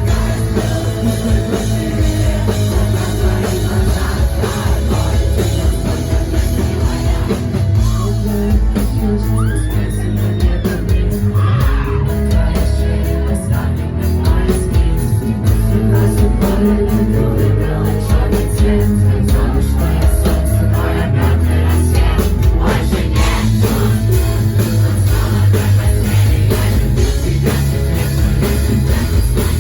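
Loud rock band playing, with a singer's voice over drums and guitars.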